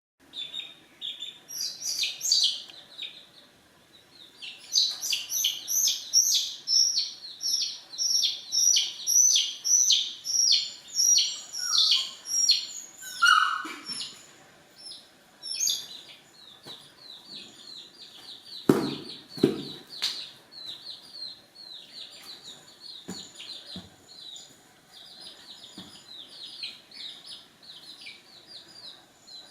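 Bird chirping: a long series of short, high chirps, loud and about two a second for several seconds, then softer and quicker. Two or three dull thumps come about two-thirds of the way through.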